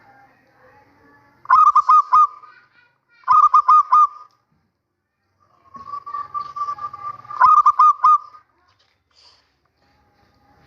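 Male zebra dove (perkutut) cooing: three bursts of quick staccato coos, each about a second long, the last one led in by a softer drawn-out note.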